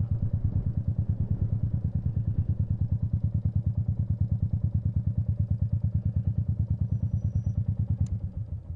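Royal Enfield Meteor 350's single-cylinder four-stroke engine idling, an even beat of about eleven pulses a second, dying away near the end.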